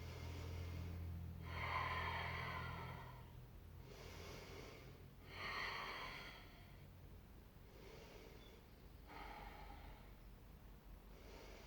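Faint, heavy breathing: a handful of slow, audible breaths in and out, from the effort of holding a forearm plank.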